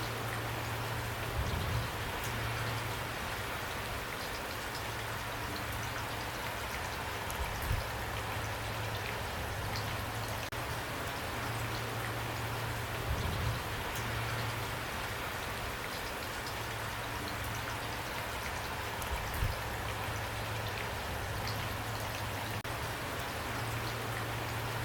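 Steady rain pattering on a roof, with scattered sharper drops ticking through it and a steady low hum underneath. A few brief louder swells come every several seconds.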